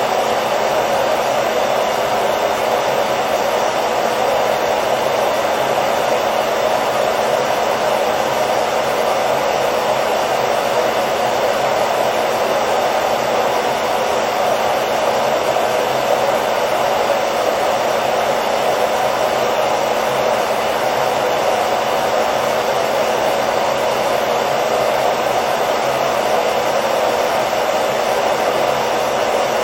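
Hair dryer running steadily: a constant whooshing blower noise with a faint motor hum, unchanging throughout.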